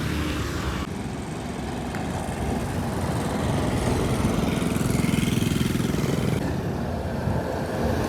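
Heavy truck engine running with a rapid low throb, growing louder toward the middle and then easing off.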